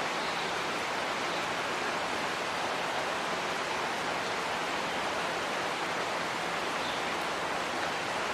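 Heavy rain pouring steadily, a dense even hiss with a faint low hum underneath.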